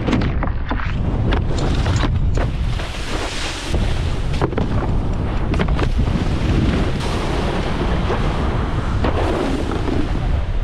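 Wind buffeting the microphone over rushing water, as a wakeboard cuts across the water behind the tow. The noise stays loud and steady with a deep rumble throughout.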